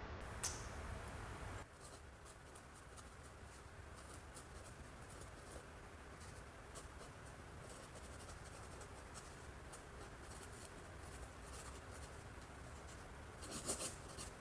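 Faint scratchy brush strokes on canvas, with scattered small ticks and a couple of louder clicks near the end.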